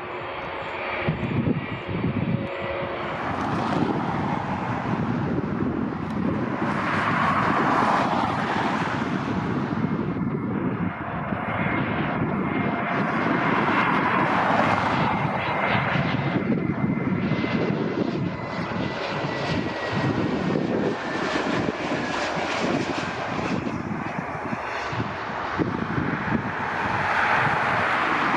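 Airbus A321 jet engines on an arriving airliner: a continuous rumble that swells and eases, with a faint high whine that slowly falls in pitch through the middle.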